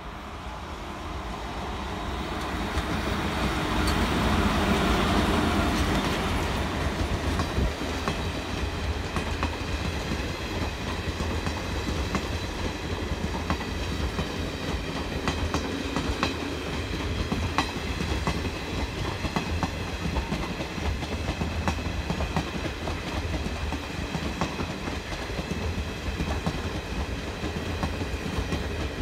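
WAG5 electric locomotive and its passenger coaches passing close by, loudest a few seconds in as the locomotive goes past. After that comes a steady rolling rumble with clickety-clack of wheels over rail joints and a thin high whine.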